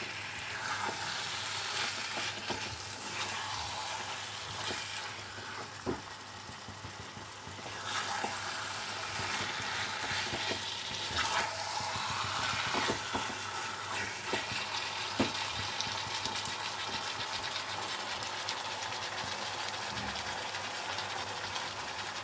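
Marinated chicken pieces sizzling in a pan of spiced onion-tomato masala, stirred with a spatula that scrapes and knocks against the pan now and then.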